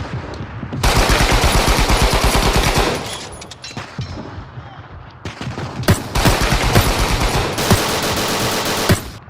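Rapid automatic machine-gun fire in long bursts, a soundtrack battle effect: one burst from about a second in to three seconds, sparser shots, then a second long burst from about five seconds until near the end.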